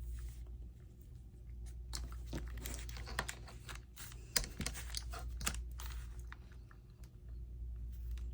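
Paper or card being handled and worked on a craft table, with crackly rustling and scraping about two to six seconds in, over a steady low electrical hum.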